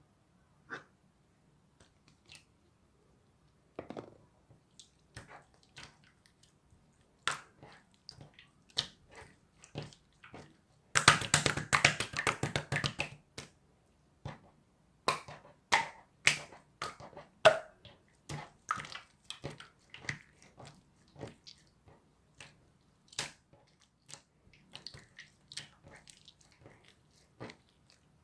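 Slime being squeezed and pressed by hand, making scattered sticky clicks and pops, with a dense run of crackling pops for about two seconds near the middle.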